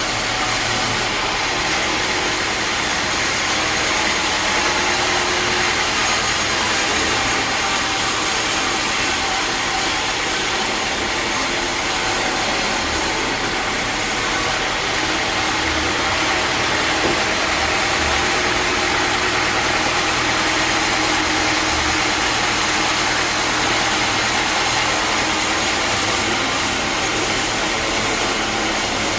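Sawmill bandsaw machinery running steadily: a constant loud mechanical whir with no breaks or changes.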